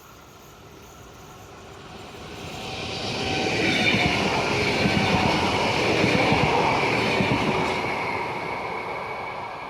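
A TER 2N NG double-deck electric multiple unit passing by. It grows louder over a couple of seconds, goes past with a mix of wheel-on-rail noise and a steady high whine, then fades away.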